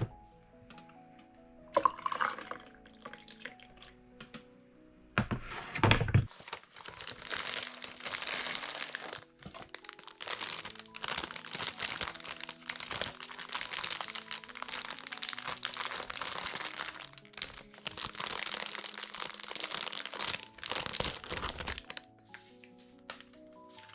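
Soft background music with a few short knocks, then a dense, continuous crackling like something being crinkled or crunched. It starts about five seconds in and stops a couple of seconds before the end.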